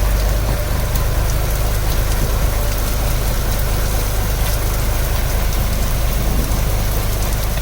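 Light rain falling on a fishing boat, an even hiss over the steady low hum of the boat's engine idling.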